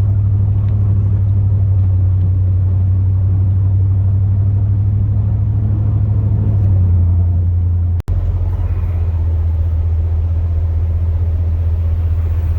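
The 2002 Chevrolet Silverado's 8.1-litre big-block V8 gas engine running steadily as the truck drives, a low drone heard from inside the cab. Its pitch drops a little about two-thirds of the way through, and the sound cuts out for an instant just after that.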